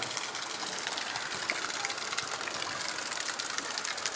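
Rain falling onto floodwater: a steady rush of water noise with many small drop impacts.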